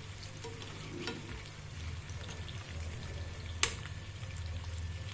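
Bone-in chicken pieces sizzling in a pan on low heat while being stirred, a crackling hiss with small ticks. A spatula clicks against the pan faintly about a second in and sharply about three and a half seconds in, over a steady low hum.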